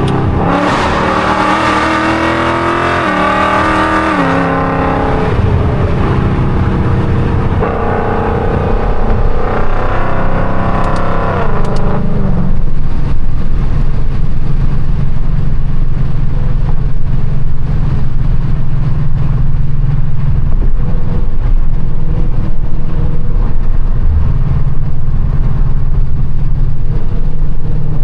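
Catless, straight-piped Mustang GT 5.0 V8 exhaust. The revs climb in steps through the first few seconds and climb again from about 8 to 12 s, then the engine holds a loud, steady drone for the rest.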